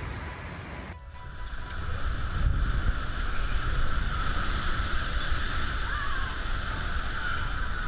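Wind and breaking sea waves: a steady rushing noise over a deep rumble that starts abruptly and grows louder about a second in.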